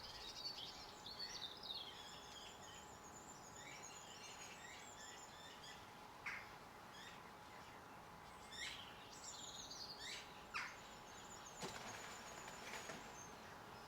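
Small garden birds chirping and twittering at a feeder, faint, with bouts of quick high twitters and several short, sharp single calls.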